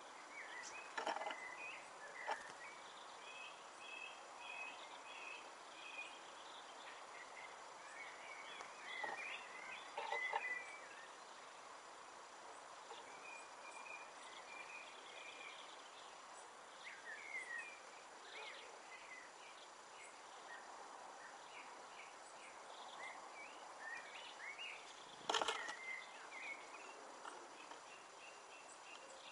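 Small garden birds chirping with short high calls scattered throughout, over a steady background hiss, with a few sharp knocks, the loudest near the end.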